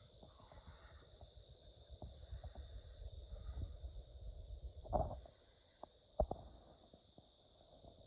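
Outdoor ambience of a steady, high insect chorus over a low rumble, with a dull thump about five seconds in and a sharp knock a second later.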